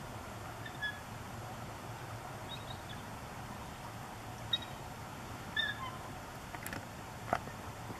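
A few short, high bird chirps, scattered singly, over a steady outdoor rushing background, with a sharp click near the end.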